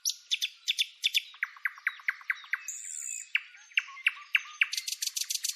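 A bird singing: a long run of short, sharp chirping notes, about five a second, quickening into a faster rattle near the end.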